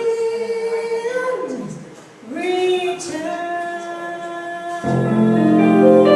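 A woman's jazz vocal singing long held notes, one sliding down in pitch about two seconds in, with guitar and bass accompaniment coming in fuller near the end.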